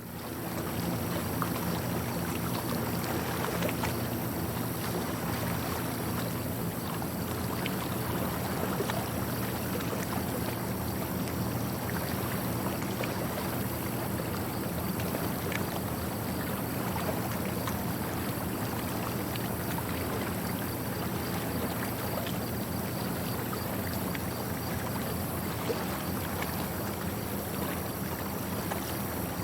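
A boat's motor running steadily, a low even hum with a noisy wash over it; it fades in at the very start.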